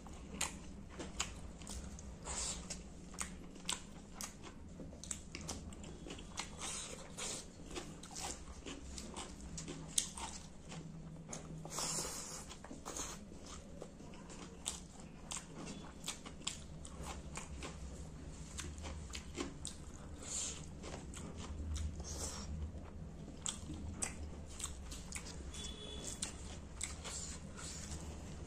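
Close-miked wet chewing and lip-smacking of someone eating rice with pangas fish curry by hand, a continuous run of short, irregular mouth clicks.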